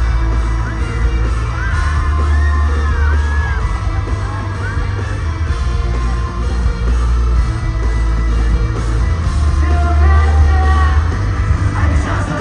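Live rock band playing loudly with heavy bass and drums, with singing and yelling voices over the music.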